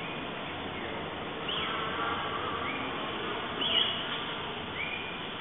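Birds calling: a few quick, high whistled calls that drop in pitch, about one every one to two seconds, over a steady background hiss.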